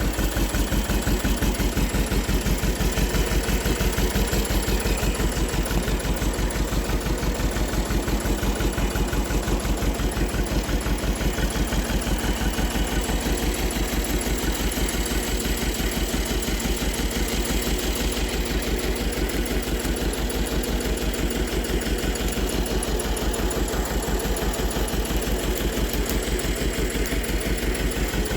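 Holder A30 compact tractor's engine running steadily at an even, pulsing idle-like rhythm.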